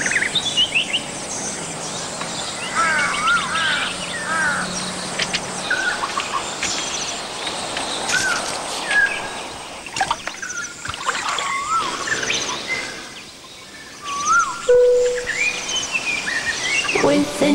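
Several birds singing: short rising and falling whistled chirps and fast high trills, repeated throughout over a steady background of outdoor noise.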